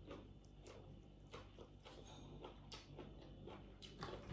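Faint, crisp crunching of deep-fried fish bones being chewed: a run of short irregular clicks.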